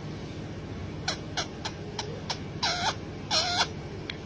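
Pet parrot giving two short pitched calls about a second apart, preceded by a few light clicks.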